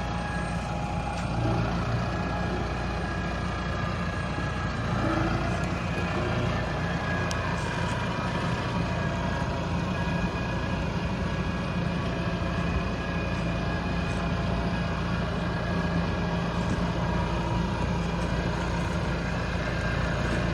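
Deutz-Fahr harvester's diesel engine running steadily at an even, constant speed, with a low, level drone.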